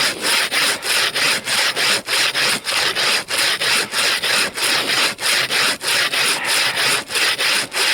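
A hand bow saw cutting through frozen fir wood in steady back-and-forth strokes, a little over two a second, each one a dry rasp.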